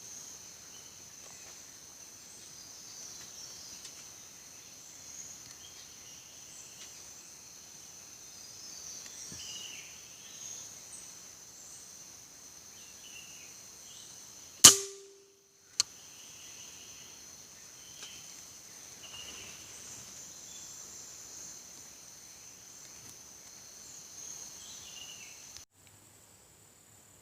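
A single sharp air-rifle shot about halfway through, with a brief ring, followed about a second later by a smaller click. Around it, a steady high insect drone and scattered bird chirps.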